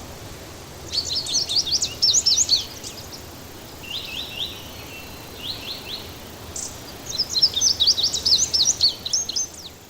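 A songbird singing: two long, rapid, twittering phrases of high varied notes, with a few short note groups between them, over a steady background hiss.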